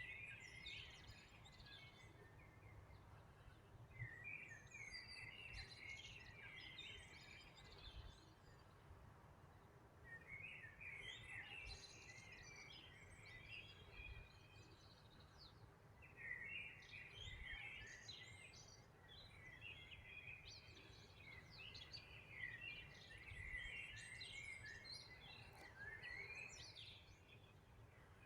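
Faint songbirds chirping and twittering in bouts of a few seconds, with short gaps between them, over a steady low rumble.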